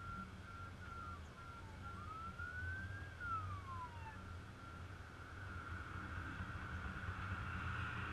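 Rapid, even beeping of a heavy-equipment back-up alarm over the steady low rumble of diesel engines, with a few squeals sliding in pitch partway through.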